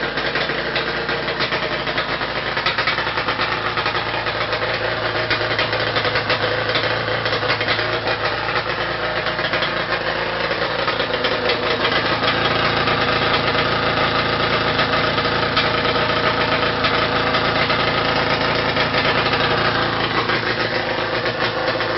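Yamaha Banshee 350 twin two-stroke engine, drag-ported with dual carbs, running steadily in a Honda ATC 250R three-wheeler, a little louder from about halfway through.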